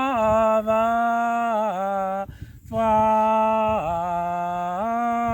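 A single voice singing a slow worship chorus, holding long drawn-out notes on the word "Father". Each phrase starts on a higher note and steps down, with a short break for breath about two seconds in.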